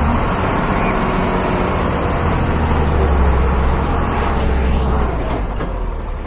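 Heavy goods truck's diesel engine running steadily under load, with road noise.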